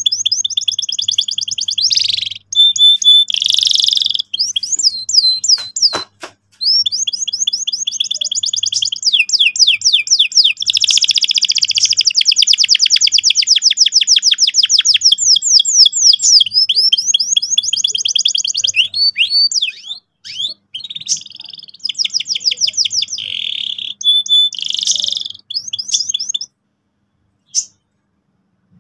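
Domestic canary in full song: long, fast rolling trills of rapidly repeated high notes, mixed with short chirps and rattling phrases. The song breaks off near the end.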